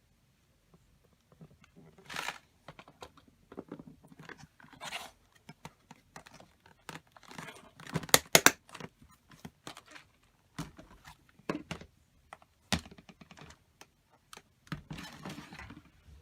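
Rummaging through paper craft supplies: paper rustling and crinkling, with scattered clicks and taps of small items being picked up and set down. The loudest cluster of clicks comes about eight seconds in.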